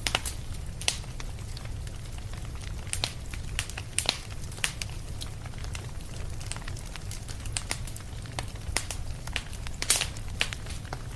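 Wood fire crackling and popping irregularly over a steady low rumble, with one louder sharp pop near the end.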